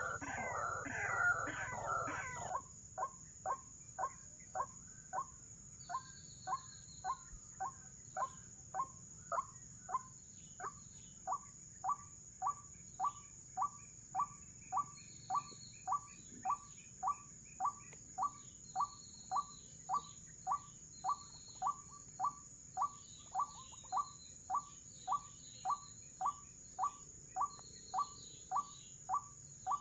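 White-breasted waterhen (ruak-ruak) calling: a louder, denser stretch of calls for the first two seconds or so, then a monotonous series of short notes about two a second, the lure call used to draw the birds into the snares. Fainter chirps of other small birds and a thin steady high whine sit behind it.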